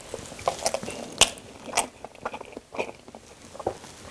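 A person chewing a mouthful of toasted sandwich close to the microphone: irregular sharp mouth clicks and crunches, the loudest about a second in.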